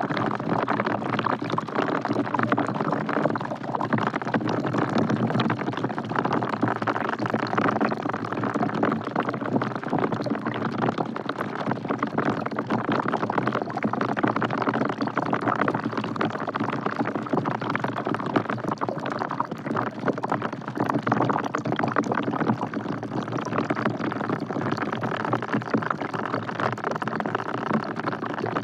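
Steady rain falling into a bucket: a dense, even patter of drops.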